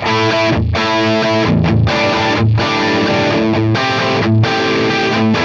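Distorted electric guitar played through a Line 6 HX Stomp's Marshall JCM 800 amp model with the volume at full, playing 80s-metal rhythm chords with short breaks between them.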